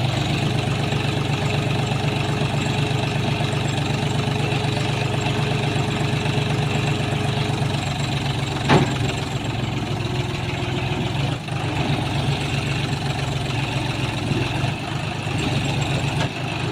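Tractor diesel engine running steadily, with one sharp knock a little past halfway through.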